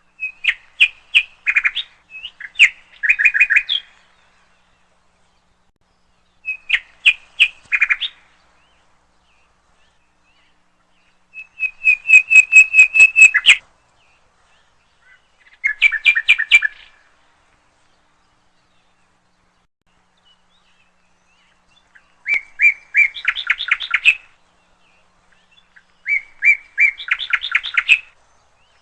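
A songbird singing in short phrases of rapid repeated chirps, about seven phrases each lasting one to two seconds, separated by pauses.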